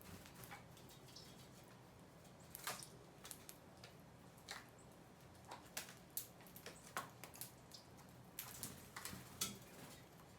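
Faint, irregular clicks and taps, a few somewhat louder, over a low steady hum.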